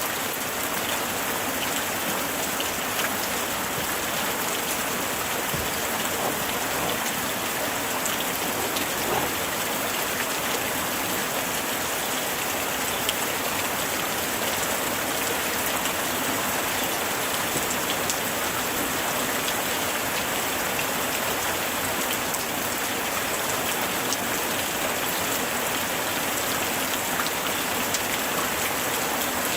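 Light rain falling steadily, a dense even hiss with scattered small drop taps.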